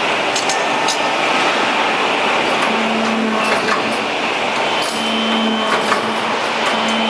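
Hydraulic riveting machine working in a factory: a steady rushing noise with scattered clicks and knocks, and a low hum that comes on briefly three times.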